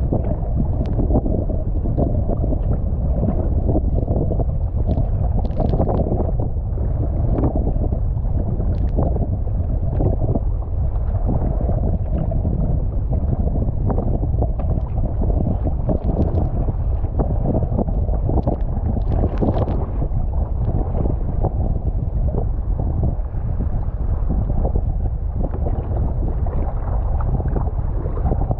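Wind buffeting the microphone over water lapping and splashing around a kayak in choppy water, with short splashes here and there.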